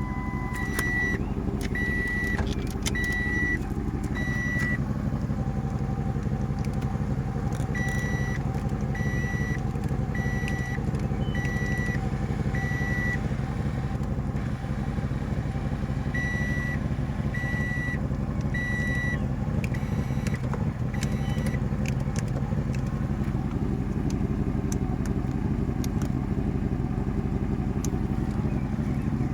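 1996 Lincoln Continental's 4.6 V8 running steadily at idle. Over it a high electronic chime beeps about once a second in three runs, the longest near the start and the shortest late on.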